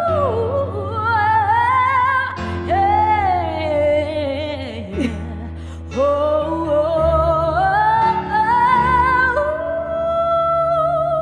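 Woman singing long, melismatic runs with wide vibrato on 'ooh' and 'yeah' over sustained keyboard chords, with a dip about five seconds in before she climbs to a high held note.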